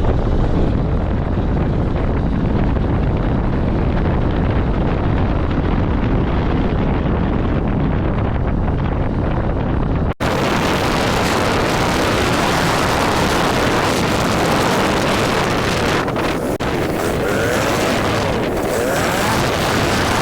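Loud, steady wind noise on the microphone of a moving vehicle. About halfway through there is an abrupt cut to a brighter, hissing noise.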